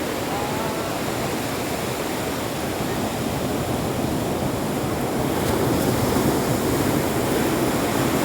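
Ocean surf washing onto the beach: a steady rush of breaking waves that swells a little about two-thirds of the way through.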